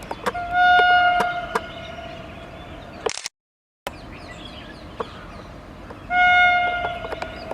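Electric locomotive horn: a single steady high-pitched blast that fades away over a couple of seconds, sounded twice, with a brief dropout to silence between. Irregular sharp clicks run underneath.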